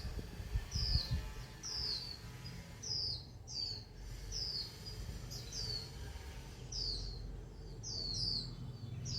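A bird calling: a short, high, downward-slurred chirp repeated about once a second, sometimes two in quick succession.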